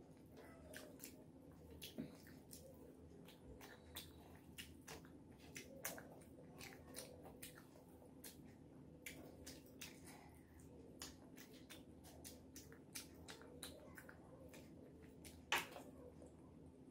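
Faint close-up eating sounds: wet chewing and small mouth clicks, scattered and irregular, with one sharper click near the end. A low steady hum sits underneath.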